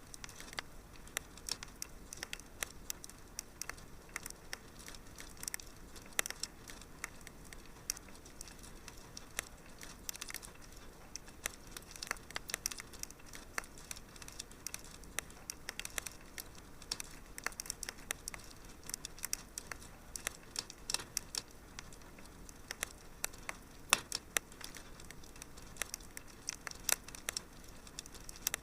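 Wood fire crackling in a fireplace: irregular sharp pops and snaps over a soft steady hiss, with one louder pop late on.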